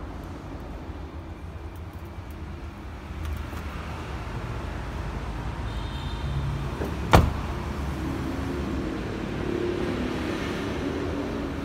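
Heavy three-axle dump truck's diesel engine running steadily, with one sharp bang about seven seconds in. The engine note grows stronger afterwards.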